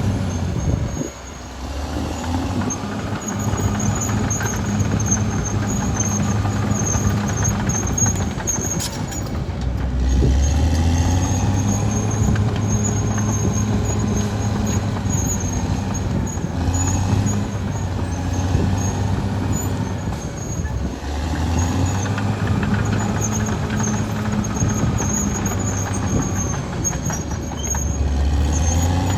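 Caterpillar D6R XL bulldozer's diesel engine running under working load, its note strengthening about ten seconds in and again near the end, with a brief dip about a second in. A high squeal comes and goes throughout.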